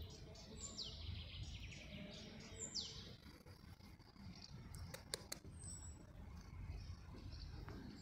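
Faint bird calls: two quick, high, downward-sweeping whistles in the first three seconds, then short high chirps around six seconds and near the end, over a low rumble. Two sharp clicks about five seconds in.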